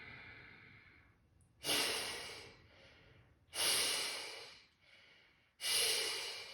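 Kapalabhati breathing: after a soft in-breath, three sharp, forceful exhalations through the nose, driven by pulling the belly in, about two seconds apart, each starting suddenly and fading quickly, with quiet in-breaths between.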